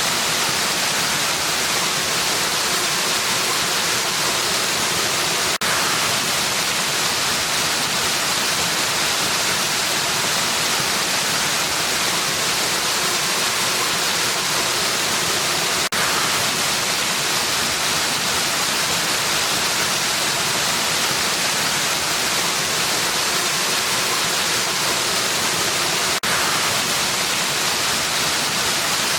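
Steady, even rushing of a waterfall with no changes in level, its hiss strongest in the high range. A faint tick comes about every ten seconds.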